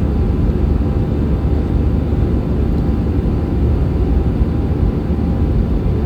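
Steady jet engine and airflow noise of an Airbus A320-200 in flight, a constant low rumble with no changes in pitch or level.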